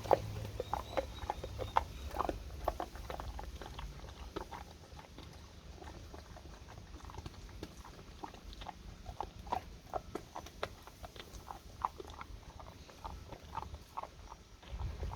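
A pet chewing a hard dental chew: irregular crunches and clicks of teeth on the treat, coming in quick runs with short pauses.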